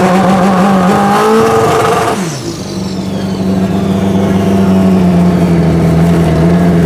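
Pro Street drag motorcycle engines running loud. One engine is revved and held, then dies away with a falling pitch about two seconds in, and a faint high whistle falls away after it. Another engine keeps running at a steady pitch.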